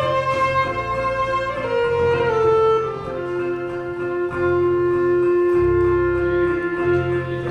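A live acoustic folk band plays an instrumental break. A fiddle plays a line that steps downward, then holds one long note, over guitar and a low bass accompaniment.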